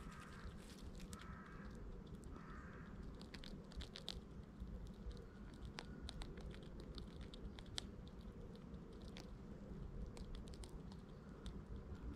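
Squirrel chewing and gnawing food close up: a faint, irregular series of small crunching clicks. A few bird calls sound in the first three seconds, over a low background rumble.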